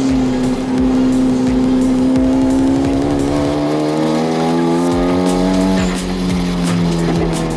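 Hyundai Genesis Coupe 2.0T's turbocharged four-cylinder race engine pulling hard on track, its pitch climbing for a few seconds before dropping about three-quarters of the way through as the driver shifts or lifts, with faint background music.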